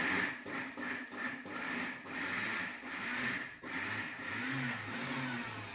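Electric mixer grinder running with a steady motor whine, coarsely crushing a thick coconut, shallot and dried-chilli paste with little water, the churning rising and falling as it goes.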